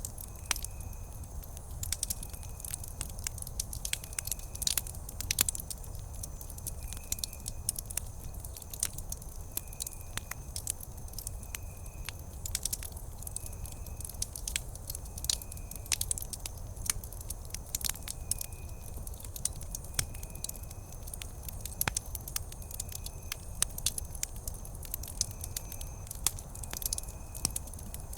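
Wood campfire crackling, with frequent sharp snaps and pops over a low steady rumble. A faint short high chirp recurs every second or two.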